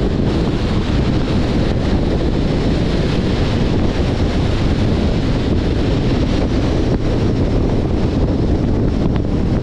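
Steady wind rushing over the microphone, with road noise from a 2021 Jeep Compass driving along.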